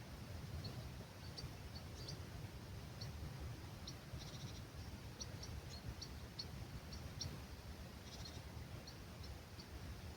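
Small birds calling faintly, with many short, high chirps and a couple of brief rapid trills, over a steady low rumble of breeze.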